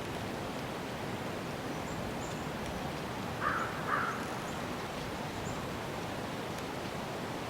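Steady outdoor ambience noise with faint high bird chirps, and two short harsh calls, like a crow's caws, about half a second apart a little before the middle.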